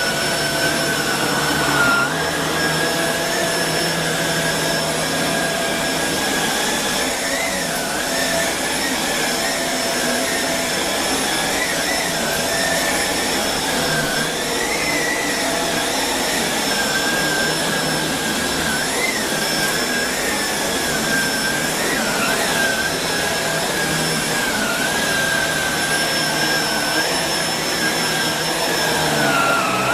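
Shark Rotator Speed Lift-Away upright vacuum cleaner running continuously: a steady motor whine over a rushing hiss, the whine wavering briefly in pitch now and then.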